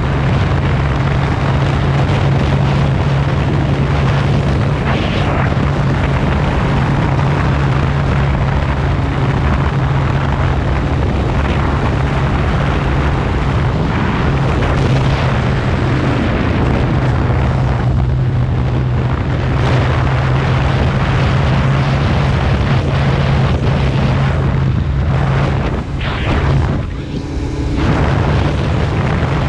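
Kawasaki ZX-14R's inline-four engine running steadily under way. About three seconds before the end it drops off briefly, then rises again.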